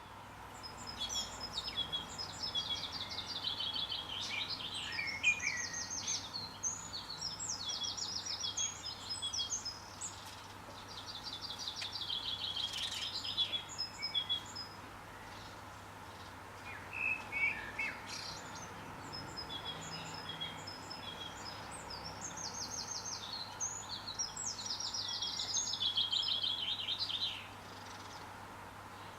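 A songbird singing long, high-pitched phrases of rapid trills and twittering notes, in several bouts of a few seconds each separated by short pauses.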